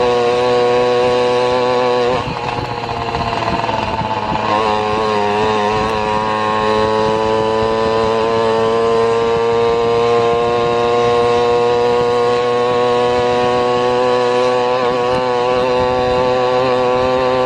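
A motor vehicle's engine running, heard close up as a steady, buzzing pitched note. It dips about two seconds in, wavers for a few seconds, then slowly rises as the vehicle moves on.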